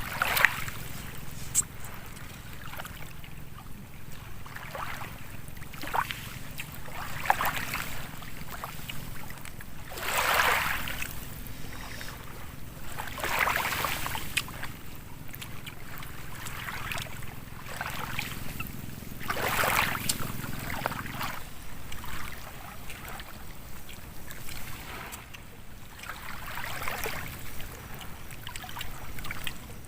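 Water sloshing and lapping in irregular swells every few seconds, over a steady low rumble.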